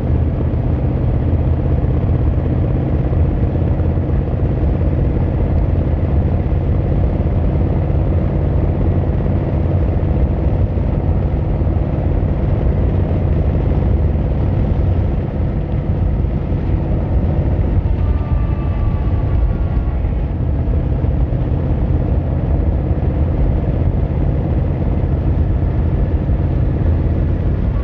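Yamaha XVZ1300 Royal Star's V4 engine and exhaust running steadily while the motorcycle is ridden, with a brief easing in level about halfway through.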